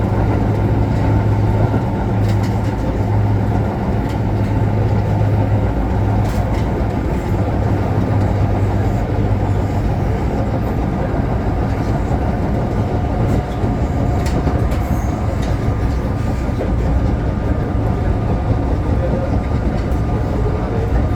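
Osaka Metro Chuo Line train running between stations, with a steady rumble of wheels on rails. A low motor hum drops away about halfway through, and there are a few faint clicks.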